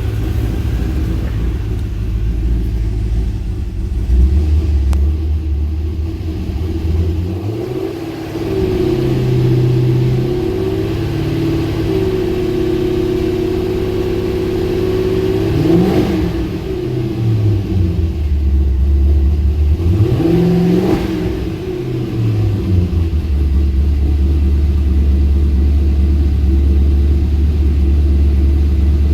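Twin-turbo GTO engine idling, revved up twice: once held for several seconds before dropping back, then a shorter blip, before settling back to idle.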